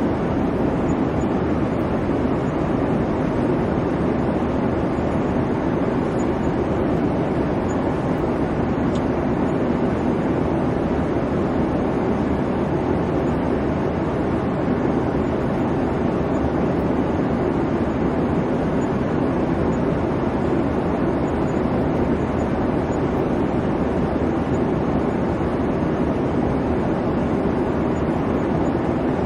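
Airliner cabin noise in flight: a steady, even rumble of engine and airflow, heaviest in the low and middle range, with no change.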